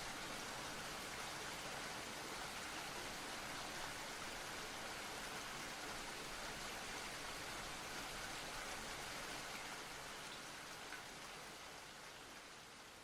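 Steady hiss of rain, an even wash of noise without distinct drops or tones, fading out over the last three seconds.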